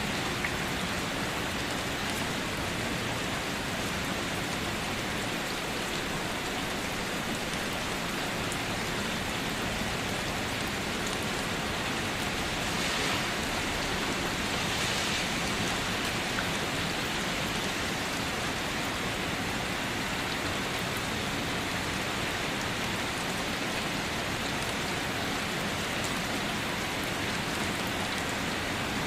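Steady rain falling, a constant dense hiss of drops, briefly a little stronger about halfway through.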